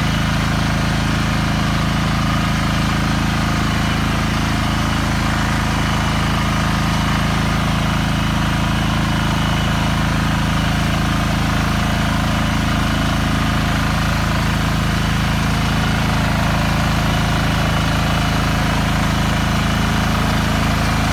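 BCS 740 two-wheel walking tractor's engine running steadily at a constant speed.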